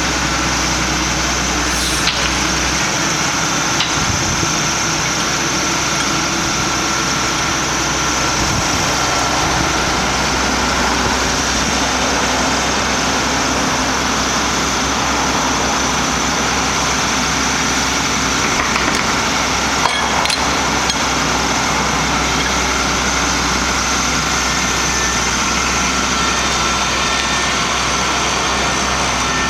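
Caterpillar M325C wheeled material handler's diesel engine running steadily; a deep low hum under it drops away about three seconds in, and a few faint clicks come through.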